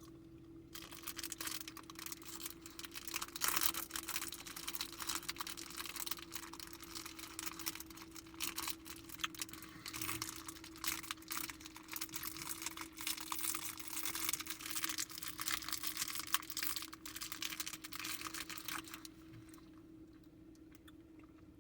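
Chewing a hard, sticky gummy candy: a dense run of wet clicks and smacks from the mouth that stops about two seconds before the end. A faint steady hum runs underneath.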